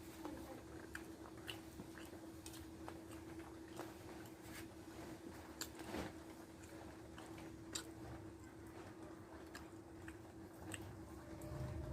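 A person chewing and eating rice with dried fish close to the microphone, with irregular small mouth clicks and smacks. A faint steady hum runs underneath.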